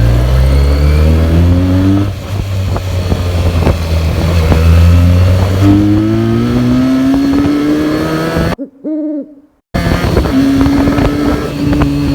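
Benelli TNT 300's parallel-twin engine through its stock exhaust, accelerating with the revs climbing several times as it goes up through the gears, then holding a steady note near the end. The sound cuts out briefly about three-quarters of the way through.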